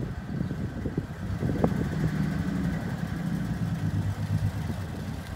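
1964 Studebaker Commander's engine idling steadily with a low hum.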